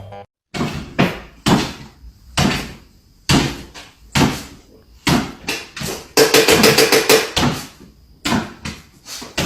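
A series of irregular knocks and thumps, each dying away quickly, with a fast rattle of about ten taps a second a little past the middle.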